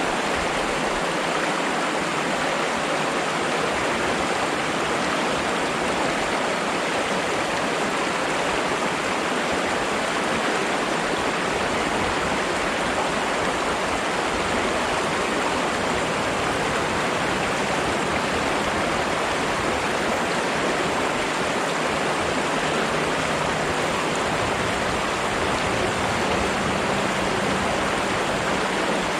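Water flowing steadily over rocks in a stream, an even rushing babble.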